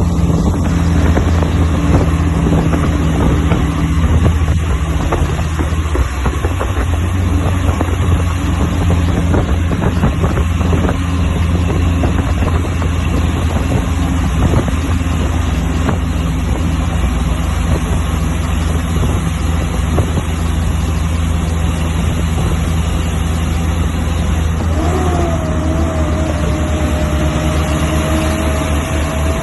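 Heavy truck's diesel engine running steadily under load on a climb. Near the end a steady higher-pitched whine joins in.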